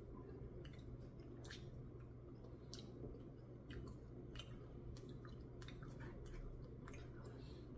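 Faint chewing and mouth sounds of a person eating a Reese's peanut butter cup Blizzard, with scattered soft clicks over a low steady hum.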